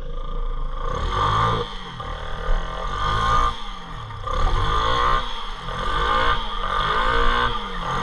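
Motorbike engine revved up and falling back again about six times, roughly once a second, while the bike is pushed through deep floodwater.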